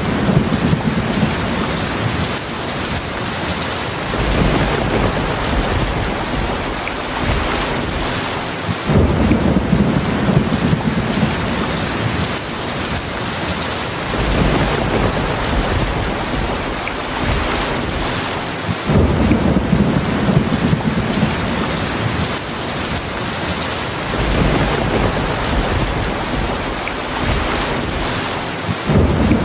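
Steady heavy rain with rolls of thunder about every ten seconds. Each low rumble starts suddenly and fades over several seconds: one just before the start, then about nine seconds in, about nineteen seconds in, and again at the very end.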